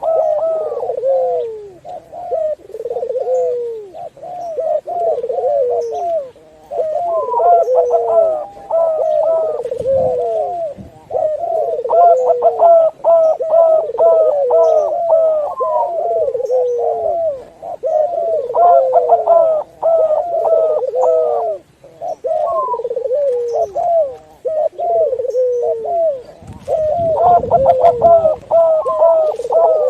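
Several doves cooing at once, overlapping runs of short coos that dip in pitch, with higher, quicker calls layered over them at times.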